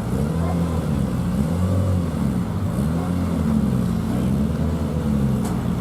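A car engine revved over and over, its pitch rising and falling about once a second over a steady low rumble.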